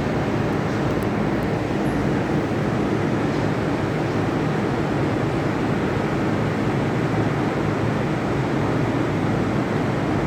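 Steady low rumbling of a metro station platform, the even mechanical drone of rail equipment and ventilation with no distinct events.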